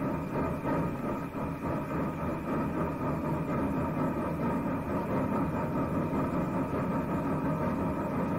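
Railway train running, a steady rumbling mechanical noise with a few faint held tones above it.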